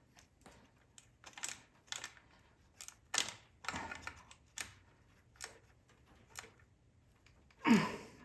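Irregular clicks and light metallic knocks from hand tools and parts being worked on the machine, with one louder clunk near the end.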